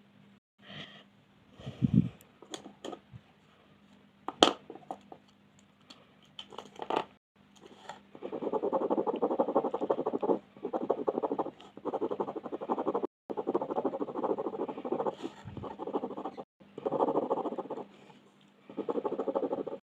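Scattered light clicks and taps of pencils being handled. From about eight seconds in come repeated bursts of colored pencil scratching rapidly across paper while shading in, each a second or two long with short pauses between.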